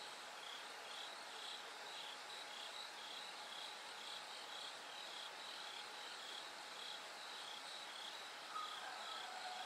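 Bell crickets singing: a high ringing chirp repeated about twice a second over a steady hiss, with a brief, lower call near the end.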